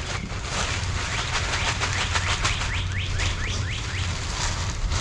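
A rake scraping and pushing cypress mulch across the ground, a steady rustling noise. About halfway through, a bird chirps in a quick run of short falling notes.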